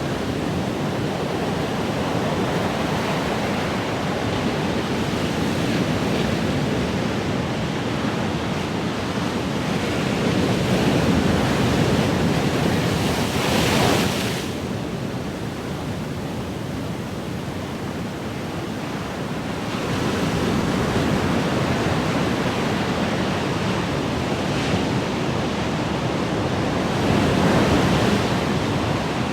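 Ocean waves washing onto the shore in a continuous rush, swelling and easing every several seconds; the break about fourteen seconds in is the strongest and ends abruptly.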